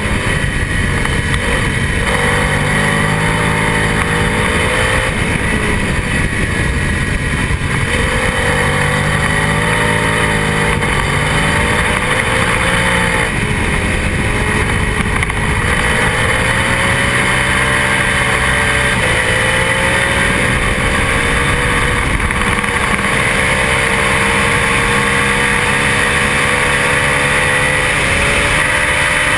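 Onboard sound of a lightweight twin-cylinder race motorcycle's engine under hard acceleration. Its pitch climbs and then drops again several times as it shifts through the gears and slows for corners.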